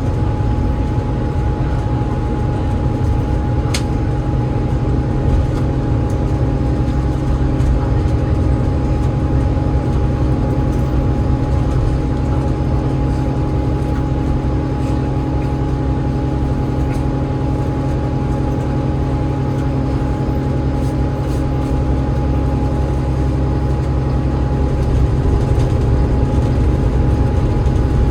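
Interior sound of an Alexander Dennis Enviro500 MMC double-decker bus on the move, its Cummins ISL8.9 diesel engine and ZF EcoLife automatic gearbox giving a steady low drone. A steady high whine sits over the drone throughout.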